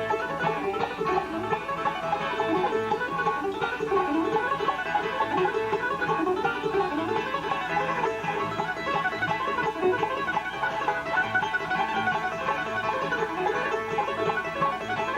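Live bluegrass band playing an instrumental on mandolin, five-string banjo, acoustic guitar and upright bass, with a busy stream of quick picked notes.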